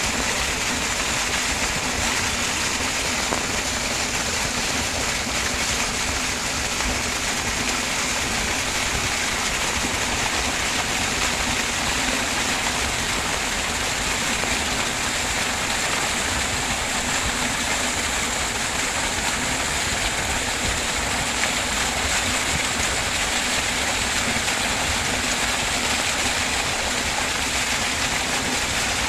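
Steady, even rush of rain falling on dense vegetation, mixed with rainwater pouring down a small channel in the bank.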